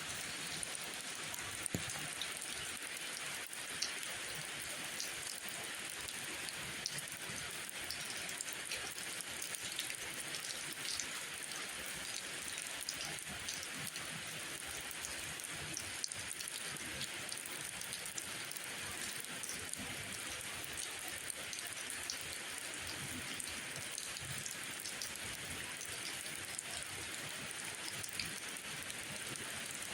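Steady rainfall, an even hiss with many scattered sharp ticks of individual drops.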